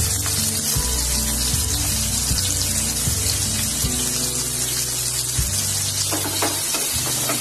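Sliced onions and green chilies sizzling in hot oil in a nonstick pan as handfuls of onion are dropped in: a steady frying hiss. Background music with a steady low line plays along.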